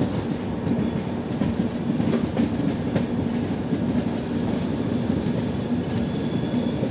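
Passenger train running along the track: a steady rumble of wheels on rail with a few light clicks.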